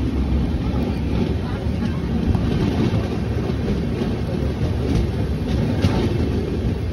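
Moving passenger train heard from inside a carriage at an open window: a steady rumble of the wheels running on the rails.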